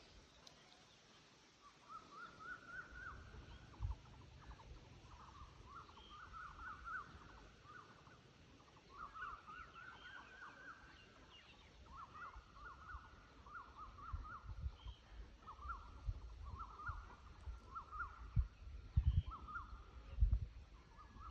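A bird calling over and over in short, fast trilled phrases of one to two seconds each, with a few higher chirps between them, over a low rumble with occasional thumps.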